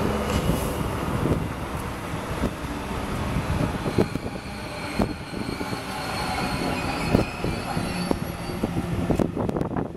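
Sydney Trains Waratah double-deck electric train rolling in along the platform as it arrives at a station. A steady rumble runs under sharp wheel clicks over rail joints, with a faint high-pitched whine through the middle.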